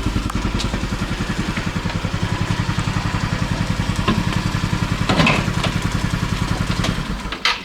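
A rented 150 cc scooter's engine idling with a steady, even pulse, stopping shortly before the end.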